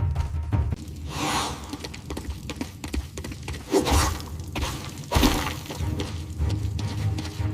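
Cartoon sound effects: three loud noisy crashes, about a second in, around four seconds and just after five seconds, over a low rumbling background.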